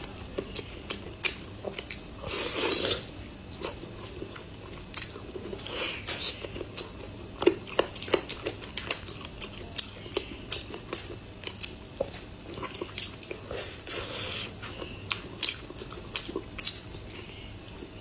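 Close-miked eating of braised meat on the bone: wet chewing with many short mouth clicks and smacks, and one longer, louder noise about two and a half seconds in.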